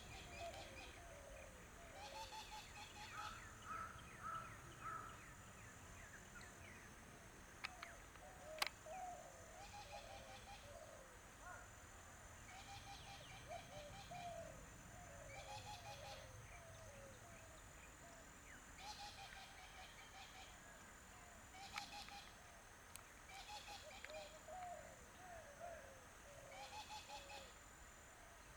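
Faint birds calling outdoors, short groups of call notes repeating every second or two, with one sharp click about a third of the way in.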